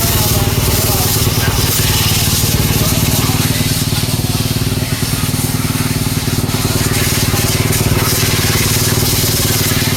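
Motocross bike engines running at a steady pitch, with a rushing noisy haze over them.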